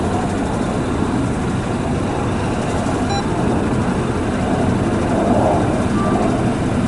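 Mitsubishi Fuso Super Great's 6R20 inline-six diesel idling steadily, freshly started after an oil change.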